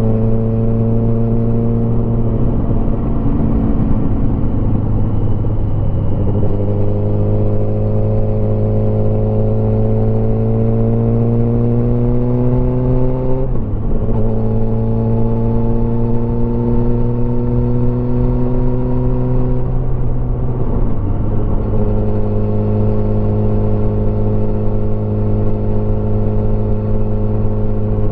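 Motorcycle engine running under way, its note holding steady, then climbing through the middle as the bike accelerates. The note breaks briefly about halfway and again about three quarters through, and after the second break it settles at a lower pitch.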